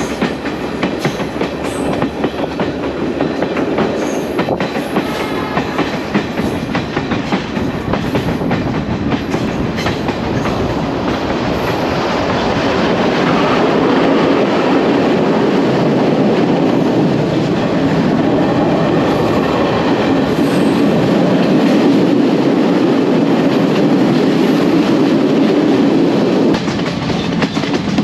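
Passenger train carriage running along the track, heard at an open window: a steady rumble with the clickety-clack of the wheels over the rail joints. It grows louder about halfway through.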